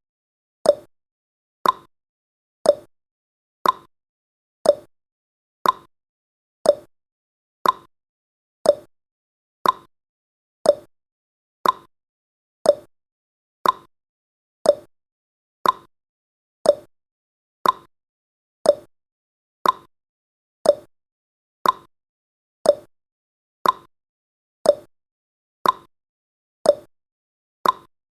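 Clock-tick sound effect of a countdown timer, one sharp tick each second, steady and unchanging.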